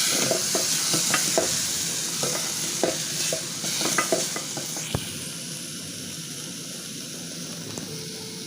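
Food sizzling in a pot on a gas burner while it is stirred, with light knocks of the spoon against the pot over the first five seconds and one sharper knock about five seconds in. The sizzling then goes on more quietly and steadily.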